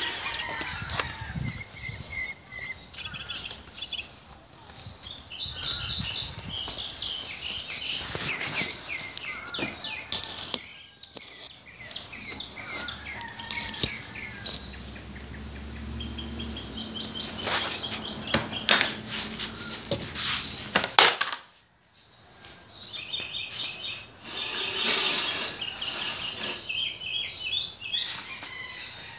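Songbirds chirping and singing in repeated short phrases, over knocks and rustles from the phone being handled and set down, with one louder knock late on.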